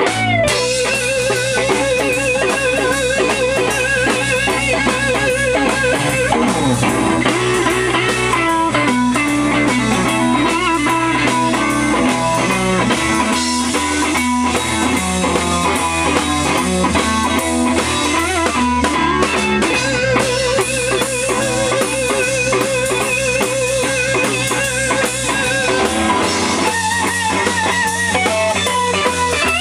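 Band music: electric guitar lines with vibrato over bass and drums, a studio recording with no vocals.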